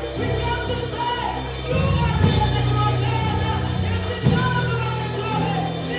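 Worship band music: held keyboard or organ chords over a bass line, with a voice singing over them in a large room.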